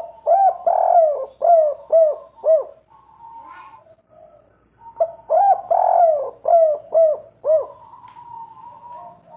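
A spotted dove cooing two song phrases of five notes each, the second note of each the longest: the song type that fanciers call 'kuk 3'. A faint steady whistling tone fills the gaps between the phrases.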